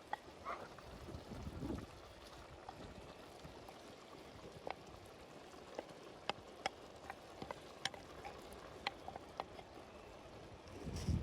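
Outdoor cooking over an open fire: a low steady hiss with scattered sharp crackles and pops, and a low thump about a second and a half in and again at the end.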